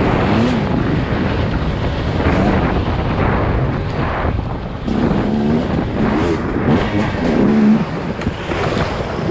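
Dirt bike engine revving up and down as the bike is ridden, over heavy rumble and wind noise on the microphone.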